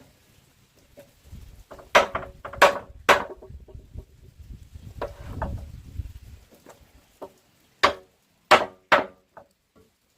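Sharp blows of a tool striking wood, in two bursts of three hard strikes with lighter knocks between.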